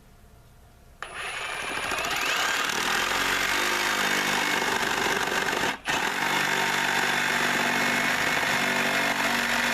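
Milwaukee cordless reciprocating saw (Sawzall) cutting through a wooden landscaping timber. The saw starts about a second in and runs steadily, with a split-second stop a little past the middle before it cuts on.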